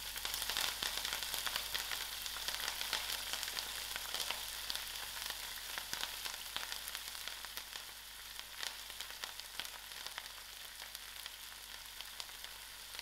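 Fresh methi (fenugreek) leaves frying in hot oil with onions, garlic and chillies in a pot: a dense crackling sizzle that slowly dies down.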